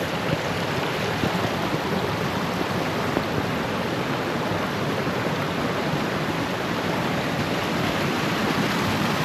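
Steady rush of running stream water, an even noise with no breaks.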